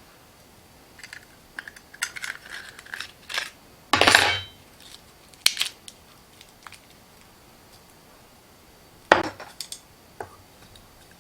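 Kitchen clatter: hard items clinking and knocking against dishes and utensils in a handful of separate strokes, the loudest a short clatter about four seconds in and another a little after nine seconds.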